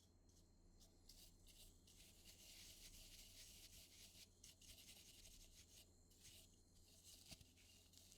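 Faint scratchy rubbing on a surface, strongest in the middle, with a few light clicks.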